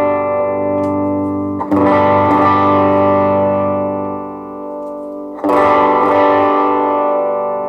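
Electric guitar through a Positive Grid Reactor 50 1x12 combo on its warm channel, with light distortion: a chord ringing out, then two more strummed chords about a second and a half in and about five and a half seconds in, each left to ring. The amp's bass control is being swept up and down as the chords ring, so the low end thins and fills.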